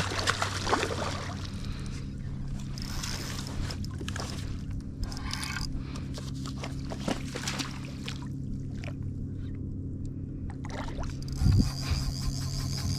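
Kayak's electric trolling motor humming steadily, with scattered small clicks and knocks on top and a louder knock about eleven and a half seconds in.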